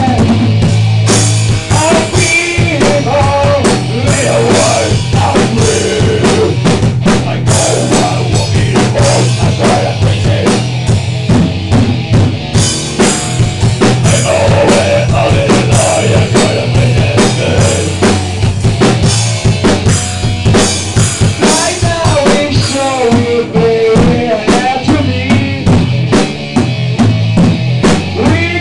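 Rock band playing live, with the drum kit loudest: dense snare and bass drum hits over a steady bass line and wavering pitched lead lines.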